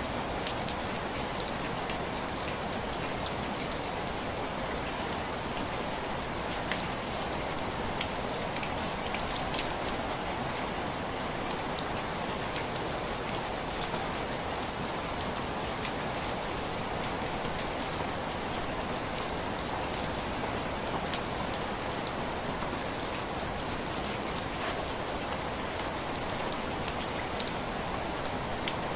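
Steady rain pattering on window glass, a constant hiss with scattered sharp taps of single drops.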